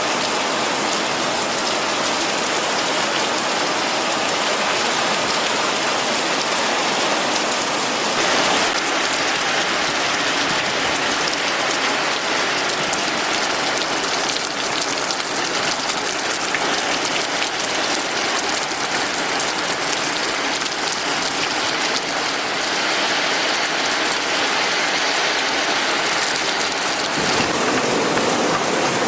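Heavy rain from a summer storm pouring down steadily and loudly.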